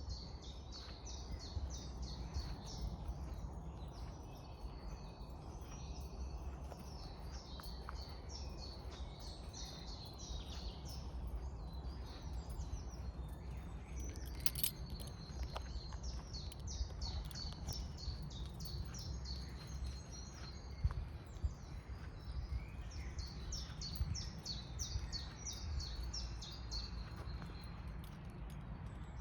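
Woodland birdsong: several small birds singing in quick runs of high chirps and trills over a steady low rumble. A single sharp click about halfway through.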